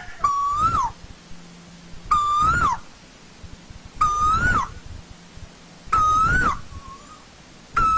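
Asian koel (tu hú) calling: a clear whistled note that holds, rises a little, then drops sharply. It repeats about every two seconds, five times.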